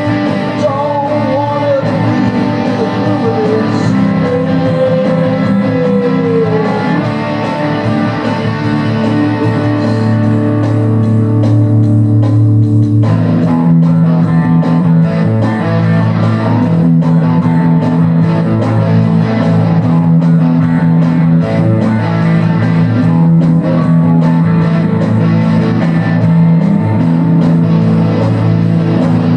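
Rock music played by a band on electric guitar and bass guitar, with gliding, bent notes in the first few seconds and the bass line changing pattern about halfway through.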